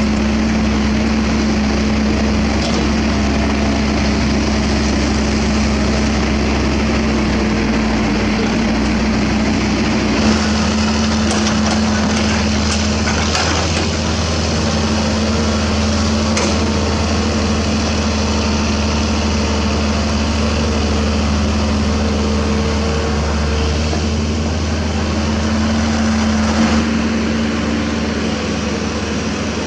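Heavy diesel earthmoving machinery, crawler excavators and a bulldozer, running steadily under work. The engine note shifts about ten seconds in, followed by a few metallic knocks.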